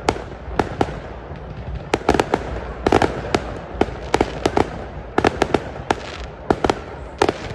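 Fireworks going off in rapid, irregular succession: sharp bangs and cracks, about three a second, over a steady low rumble.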